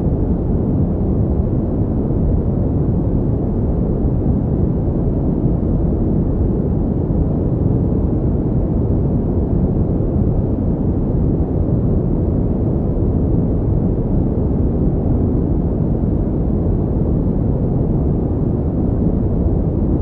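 Pink noise: a steady, unbroken deep hiss, heaviest in the bass with little treble.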